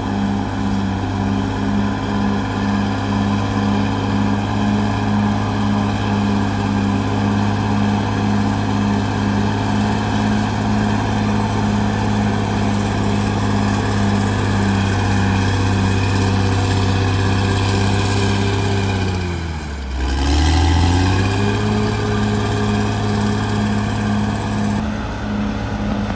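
Caterpillar D6R XL bulldozer's diesel engine running steadily under work, with a regular pulsing about two times a second. About twenty seconds in, the engine speed drops sharply and then climbs back up.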